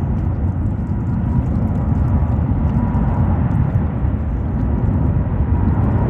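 Jet airliner engines rumbling steadily, with a faint steady whine above the rumble.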